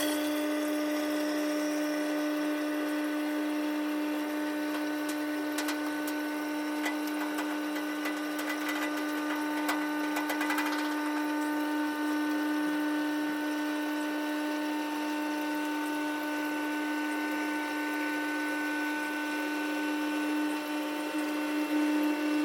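Washing machine running its wash cycle, played back sped up in a 10x time lapse: a steady motor whine with higher tones over a hissing wash noise.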